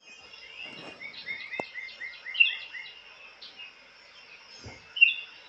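Small birds chirping: a quick run of about eight repeated rising notes in the first three seconds, then a few separate, louder chirps.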